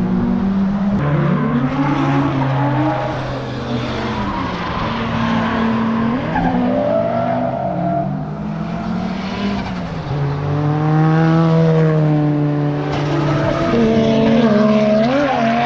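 Drift cars on track: engines revving up and falling off again and again as the cars slide, with tyres squealing. The engine note is loudest about two-thirds of the way through and again near the end.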